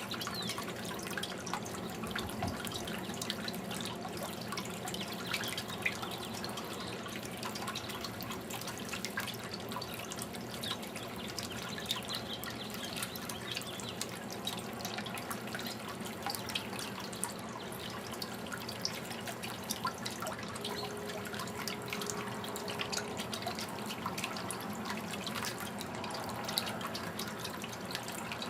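Water fountain running, a steady splashing trickle with many small drips.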